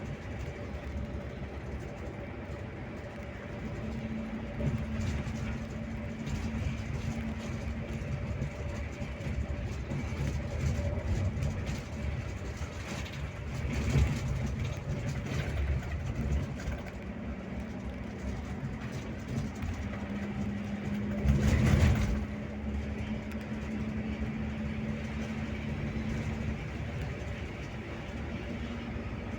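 Scania K360IB bus on the move: steady engine and road rumble, with a humming tone held for a few seconds twice and two brief louder rushes of noise, one near the middle and one about two-thirds through.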